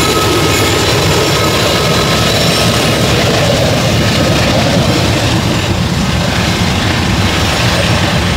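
Canadian Pacific freight train passing close by: the diesel locomotives' engines running as they go past, then covered hopper cars rolling by, a loud steady rumble.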